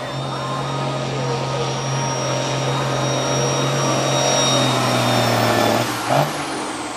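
Pickup truck engine at full throttle under load, pulling a weight-transfer sled, with a steady high whine over the engine note. Near the end the throttle comes off: the engine drops away and the whine falls in pitch.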